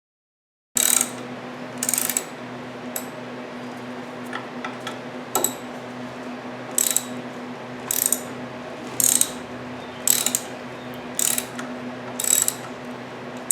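Socket ratchet clicking in short strokes, about one burst a second, as it works the bolts of a VW clutch pressure plate loose, over a steady low hum.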